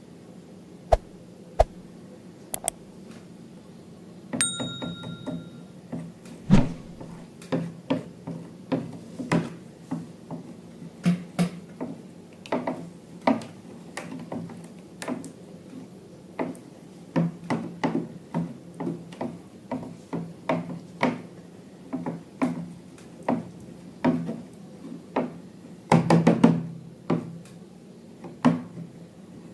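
A long series of short knocks and taps, roughly one or two a second, like objects being handled and set down. A brief ringing ding sounds about four seconds in, and a tight cluster of knocks comes near the end.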